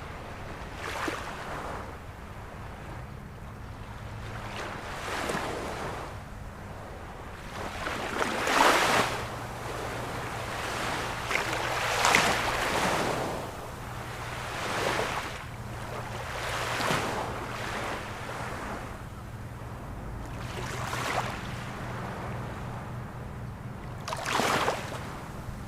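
Ocean waves breaking, a wave swelling and washing in every three to four seconds, with a faint steady low hum underneath.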